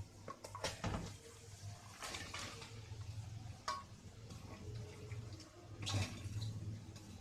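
Chopped onions being tipped into hot oil in a large pot, sizzling, with a few clatters of a spoon or ladle against the pot over a low steady hum.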